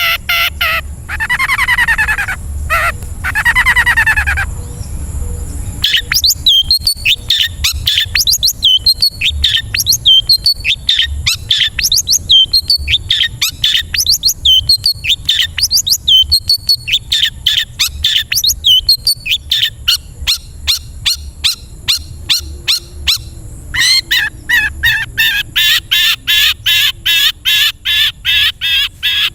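Long-tailed shrike (cendet) singing a varied song. It opens with two drawn-out falling notes, then runs into a long series of short sharp chirps, several a second. Near the end it switches to a faster, buzzy rattling chatter.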